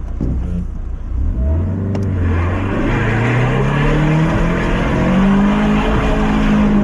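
Lifted Mazda MX-5's four-cylinder engine revving up under load, its pitch climbing steadily and then holding at high revs, with a rush of noise coming in about two seconds in, as the car drives up a rough off-road trial climb.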